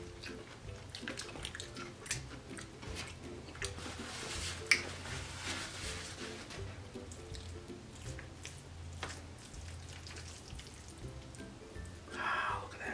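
Close-up eating sounds: wet chewing, lip smacks and mouth clicks while eating fried chicken, over soft background music. One sharp click about five seconds in is the loudest moment, amid a brief rustle as a paper napkin is used, and a short louder sound comes near the end.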